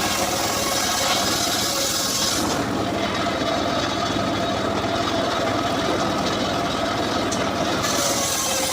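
Engine-driven homemade circular saw rig running steadily while sawing mahogany; the hissy cutting noise drops away about a third of the way in, leaving the engine and blade running on their own, and comes back near the end.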